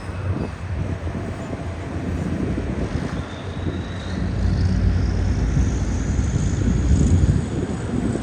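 Wind buffeting the microphone over a low engine rumble, with a faint high whine that rises steadily in pitch from about three seconds in.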